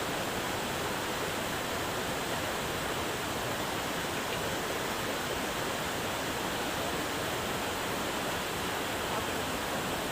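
Steady, even hiss of rainforest background noise that does not change or break.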